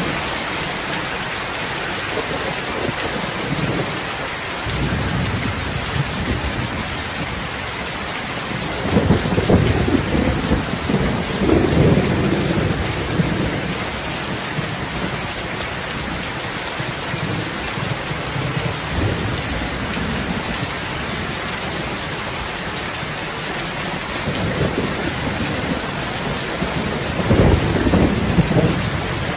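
Steady heavy rain with rolling thunder: a long rumble swells up about a third of the way in, and a shorter one comes near the end.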